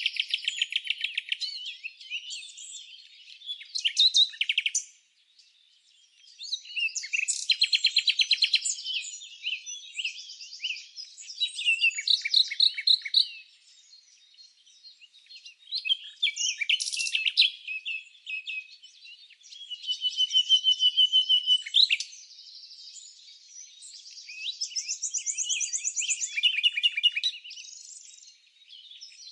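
Songbirds chirping and singing, with quick trills of rapidly repeated notes among the chirps, several calls at times overlapping, and short lulls between bursts of song.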